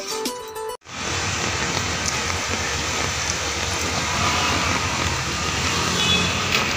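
Guitar music that cuts off abruptly under a second in, followed by the steady hiss of a heavy downpour of rain on a waterlogged street.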